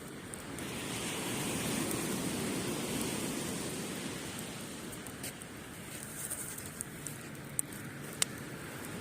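Surf washing up the beach, a wave swelling about half a second in and slowly ebbing away. A few sharp crackles from a wood campfire near the end.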